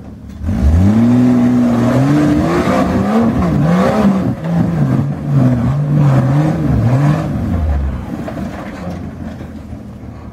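Jeep YJ rock crawler's engine revving hard on a steep rocky hill climb. The revs jump about half a second in, rise and fall over and over as the driver works the throttle, then drop back to a low, steadier run about eight seconds in.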